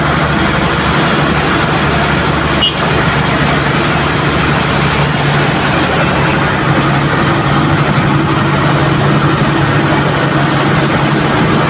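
Truck engine running steadily, with a single short click about two and a half seconds in.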